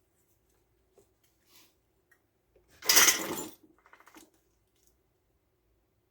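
Metal tools clattering onto a workbench: one sharp clatter about three seconds in, followed by a smaller rattle, with a few light ticks of handling before it.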